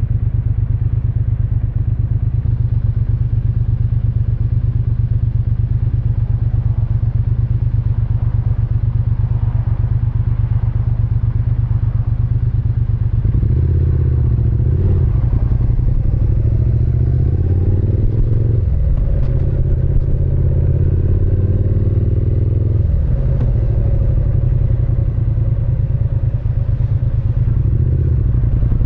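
Triumph Speed Twin 900's parallel-twin engine and exhaust running steadily at low revs, then from about halfway accelerating, the note climbing and dropping several times as it goes up through the gears.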